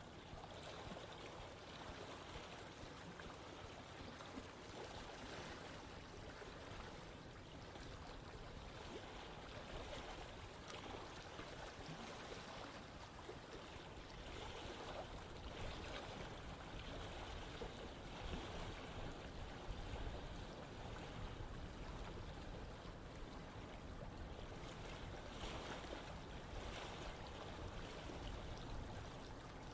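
Running water flowing steadily over rocks, an even rushing and babbling that swells slightly midway.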